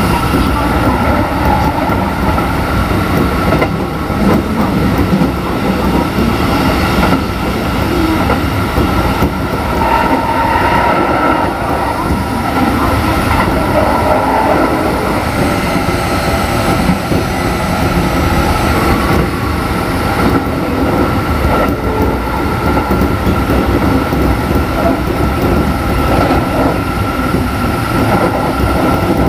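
Keikyu 1500 series electric train with Mitsubishi IGBT-VVVF traction equipment, running between stations and heard on board: a steady rumble of wheels on rail with clickety-clack from the rail joints and a steady high tone.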